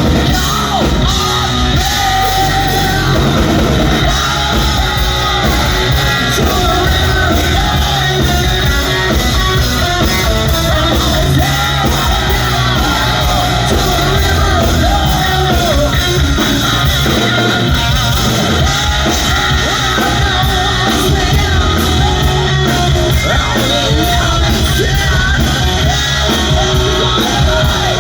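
Hard rock band playing live: a singer over electric guitar, bass and drums, loud and continuous.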